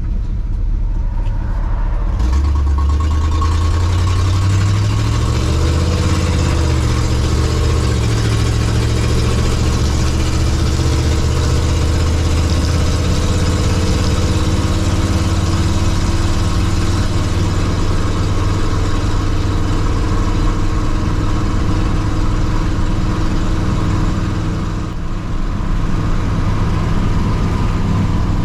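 1954 Chevrolet five-window pickup truck being driven. Its engine picks up about two seconds in, rises and falls in pitch for a few seconds, then runs at a steady cruise, easing off briefly near the end.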